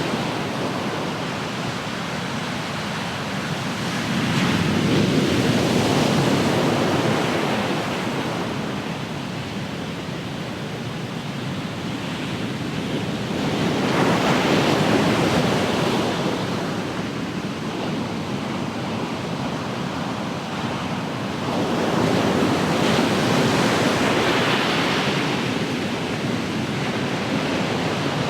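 Ocean surf washing onto the shore, swelling and ebbing in slow surges about every eight seconds, with some wind on the microphone.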